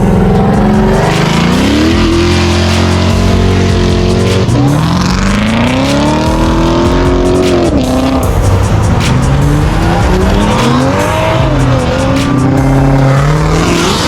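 Car engines revving hard, the pitch climbing and dropping again several times.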